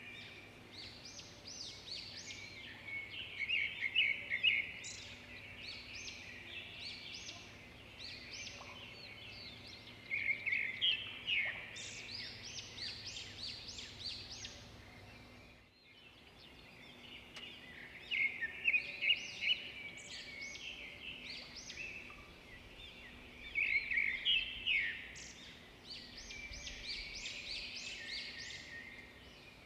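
Zebra finches calling: many short, overlapping calls in bursts, with a brief break about halfway through.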